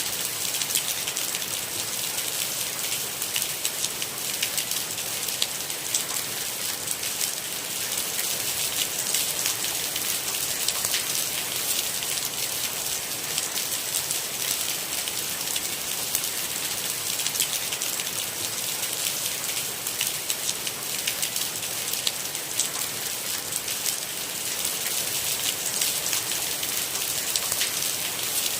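Steady rain: an even hiss full of many small drop ticks, with no change or thunder.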